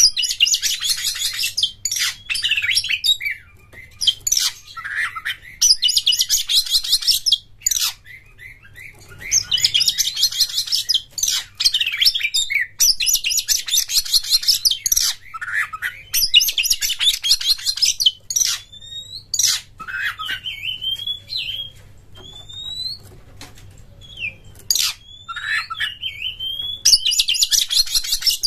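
Oriental magpie-robin singing: one-to-two-second bursts of rapid, buzzy chattering, alternating with short upward-gliding whistles.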